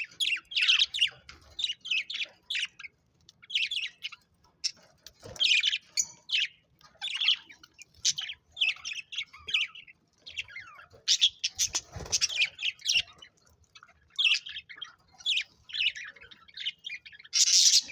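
Budgerigars (budgies) chirping and chattering in quick runs of short, high calls, broken by brief pauses.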